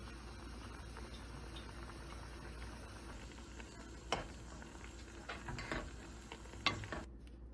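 Steady hiss of food simmering in a pan, with a few sharp clicks of a utensil against the pan about four to seven seconds in.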